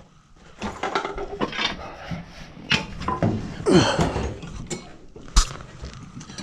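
Irregular metal clinking and knocking of hardware and tools being handled while a metal electrical junction box is fitted.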